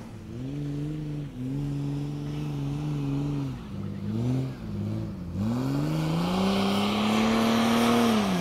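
Off-road vehicle engine revving hard, its pitch rising and falling several times before climbing about five seconds in and holding high under load, with a growing rush of noise.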